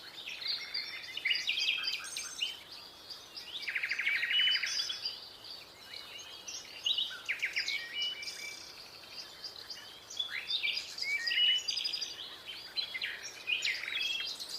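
Several birds chirping and calling over one another, with short rapid trills, the loudest about four seconds in.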